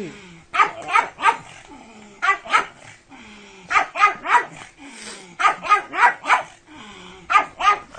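Pug barking: short barks in quick groups of two to four, a new group every second or two.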